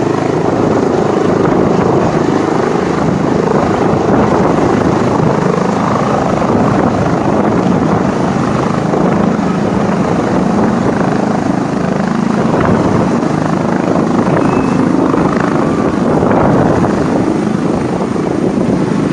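Helicopter running close by, its rotor and engine loud and steady.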